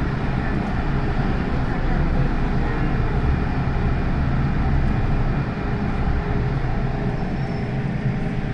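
MTR Tsuen Wan Line M-Train electric multiple unit running between stations: a steady rumble of wheels on rail and running gear, with a faint tone carried above it.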